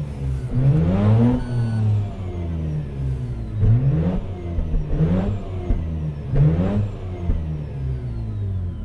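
2004 Mazda RX-8's warmed-up 13B twin-rotor Wankel (rotary) engine being revved in neutral: four quick throttle blips, each rising sharply in pitch and dropping back to idle.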